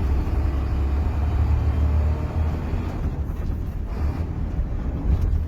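HOWO truck's diesel engine running under load, heard from inside the cab: a steady low rumble.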